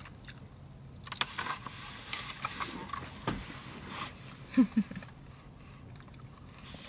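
A person chewing a seasoned potato wedge, with soft clicking, crunching mouth sounds. A little past halfway come two short hums, the loudest sounds.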